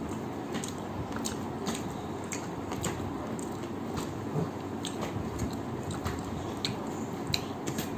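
A person chewing a mouthful of rice and chicken curry close to the microphone, with a run of short wet mouth clicks and smacks.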